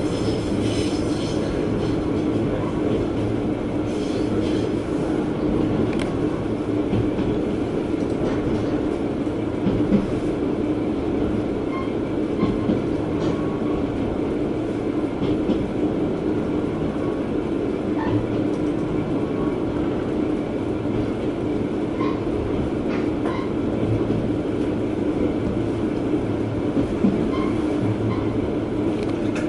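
Diesel railcar running along the line, heard from inside the passenger cabin: a steady engine and rolling rumble with occasional light clicks of the wheels over rail joints.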